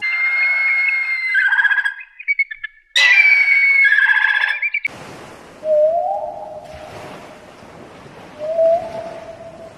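High-pitched whistled animal calls with a wavering pitch, then an abrupt change to the steady wash of surf or wind. Over it come two lower calls that each rise and then hold.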